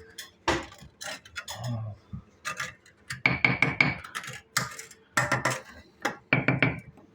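Mason's steel trowel clinking and scraping against brick and mortar, in several short bursts of quick taps with pauses between.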